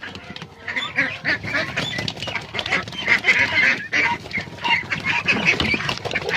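A flock of young egg-laying ducks calling, many short quacking calls overlapping one another.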